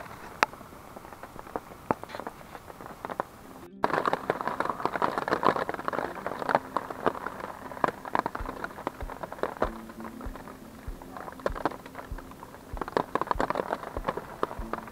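Heavy rain falling, with many sharp drop hits in among the steady patter. It cuts out for an instant about four seconds in and comes back louder.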